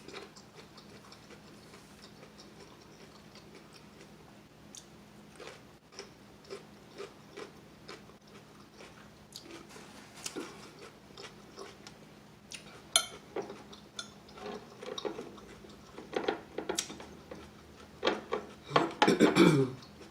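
Quiet eating-table sounds: scattered small clicks, taps and mouth noises, sparse at first and busier after about ten seconds. Near the end, a person clears her throat loudly several times.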